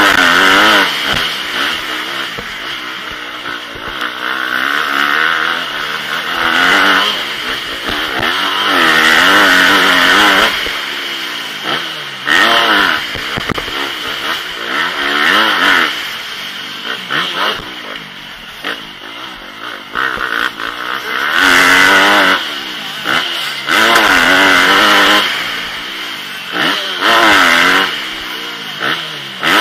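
Motocross bike engine under race throttle, revving up hard and dropping back again and again as the rider opens and closes the throttle over jumps and through corners.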